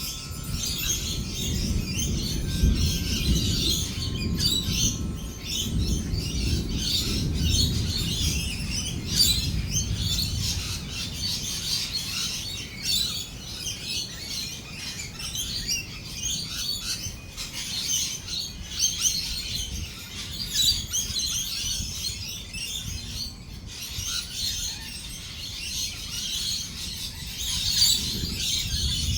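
A flock of lorikeets chattering and screeching in a dense, continuous stream of chirps. A low rolling rumble of thunder sits underneath in the first half and fades away by the middle.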